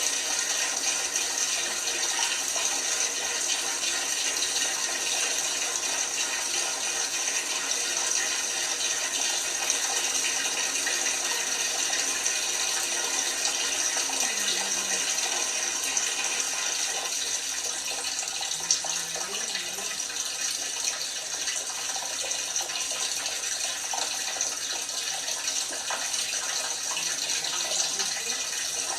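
Water running into an LG washing machine's drum, a steady hiss.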